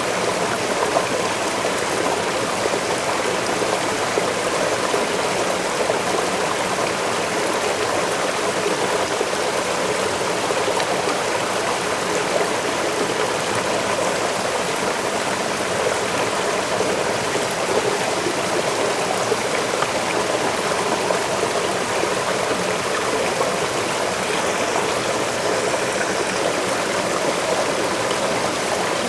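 Waterfall rushing steadily, an even, unbroken splashing noise of falling and running water.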